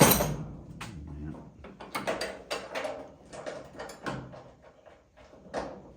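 A loud metallic clang right at the start, then a run of knocks, clicks and rattles from hand tools and the steel door and cab parts of an old pickup being worked on.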